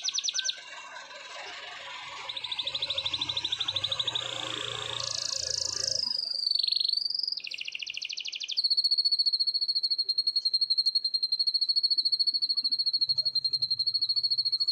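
Domestic canary singing: a run of fast rattling trills at changing pitches and a short sweeping note, then, a little past halfway, one long, even rolling trill held on a single high pitch.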